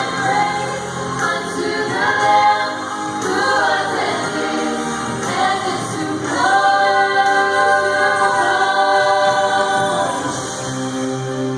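A choir singing, with a long held chord from about six seconds in to about ten seconds in.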